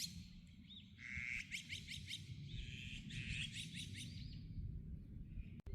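Wild birds singing: rapid series of high chirping trills, about eight notes a second, with a few short rising call notes, over a steady low rumble. The sound cuts out abruptly near the end.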